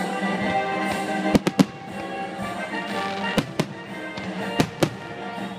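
Aerial firework shells bursting: about seven sharp bangs in three quick clusters, over steady music.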